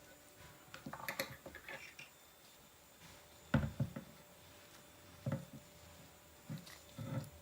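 Handling noise: a quick run of small clicks, then a few soft knocks a second or two apart, as of parts being picked up and set down.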